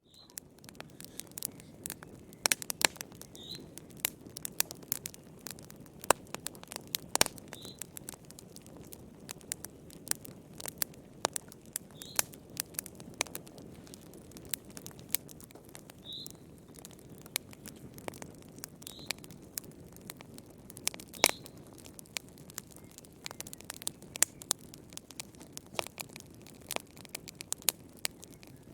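Wood fire burning in a fireplace: irregular crackles and sharp pops, some much louder than others, over a steady low rumble of the flames, with now and then a short high-pitched squeal from the burning wood.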